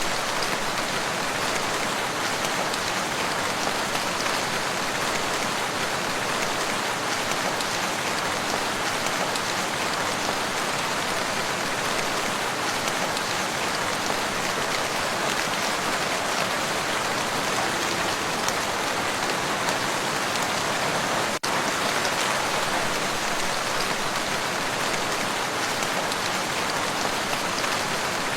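Steady, dense rain falling on a lake, an even hiss of drops on water, with a momentary dropout about two-thirds of the way through.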